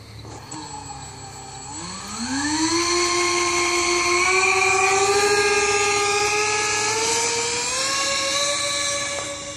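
Electric ducted fans of a Windrider Boeing 777 RC airliner model throttling up for takeoff: a high whine that rises sharply in pitch about two seconds in, then holds and steps up slightly twice more.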